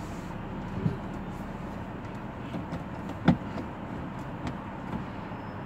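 Porsche running at low speed, a steady low hum, with a small knock about a second in and one sharp click a little after three seconds.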